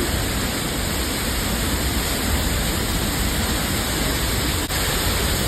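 Steady roar of Niagara Falls' water crashing down, a dense, even rush with no break apart from a brief dip near the end.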